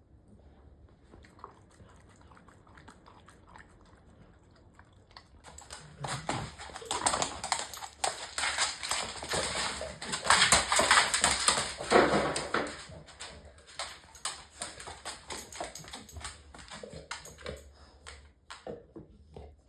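A dog, heard as a dense run of rough noise and clicks. It starts about six seconds in, is loudest around ten to twelve seconds, then fades.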